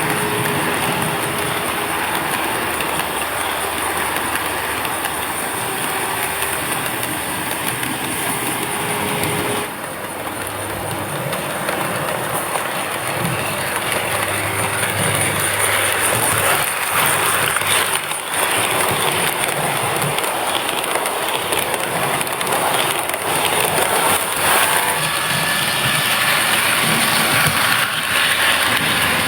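HO-scale model train running on track: a steady rolling rattle of wheels on rail, with faint high squeals near the end.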